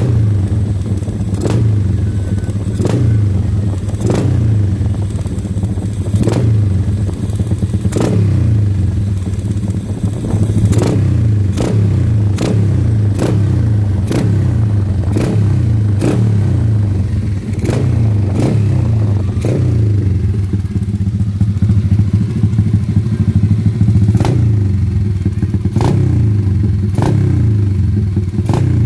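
Open-piped drag-bike motorcycle engine running at a steady idle with a loud low drone, and a sharp crack about once a second.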